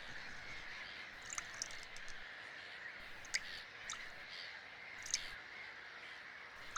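Birds calling, with short, sharp calls a handful of times over a faint steady hiss of marsh ambience.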